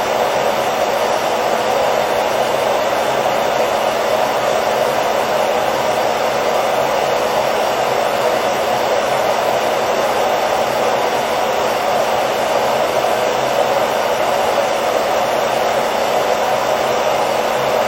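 Hair dryer running steadily: a constant even whoosh of blown air with a faint motor hum, unchanging throughout.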